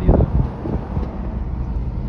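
Motor vehicle running along a road: a steady low engine and road rumble.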